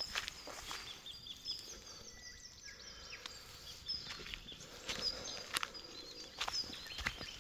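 Irregular footsteps on dry ground, mixed with small birds chirping in short, high-pitched calls.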